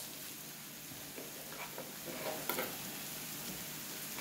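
Vegetables sizzling softly in an oiled wok as halved Brussels sprouts are tossed in, with a few faint taps around the middle.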